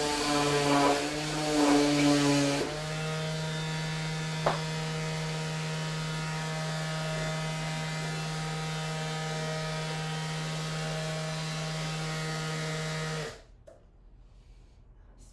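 Electric sander running: louder and uneven for the first few seconds, then a steady even hum. It is switched off and stops abruptly about two seconds before the end.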